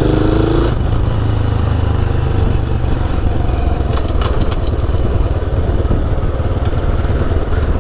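Honda C90 motorcycle's small single-cylinder four-stroke engine running steadily.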